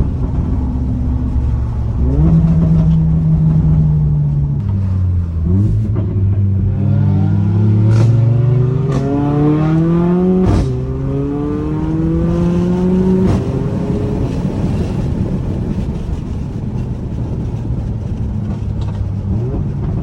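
Mercedes-AMG A45 (W176) 2.0-litre turbocharged four-cylinder under hard acceleration. Its pitch climbs and drops back through several quick upshifts, with sharp exhaust cracks at the shifts in the middle. After that it settles to a steady cruise.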